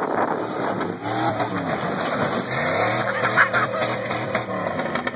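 Pickup truck's engine revving, its pitch sweeping up and down several times.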